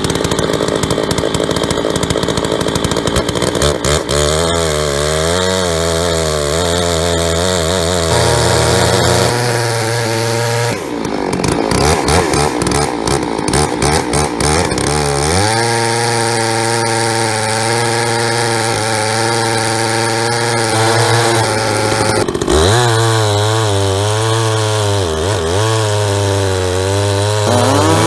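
Large chainsaw ripping a sycamore log on a chainsaw mill, running at high speed under cutting load. Its engine note sags and recovers several times as the chain bogs in the hard wood, with a deep dip about eleven seconds in.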